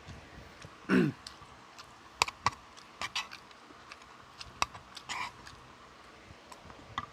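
Close-up eating sounds: scattered sharp clicks and wet smacks of chewing and mouth noises, with a short low throat sound falling in pitch about a second in.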